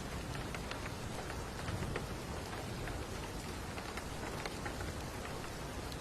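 Steady rain falling, with individual drops striking near the microphone as scattered sharp ticks over an even hiss.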